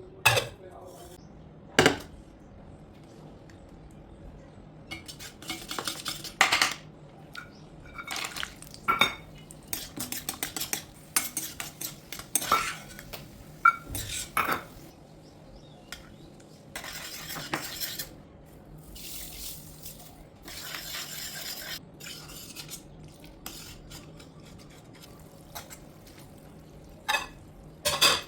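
Metal utensils clinking and knocking against a cooking pot, with stretches of stirring or scraping, in irregular strokes.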